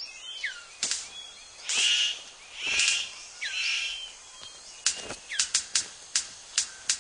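Superb bird of paradise courtship display: sharp clicks and snaps, coming several a second in the second half, with a few harsh rasping calls earlier and short downward-sliding whistled notes among them.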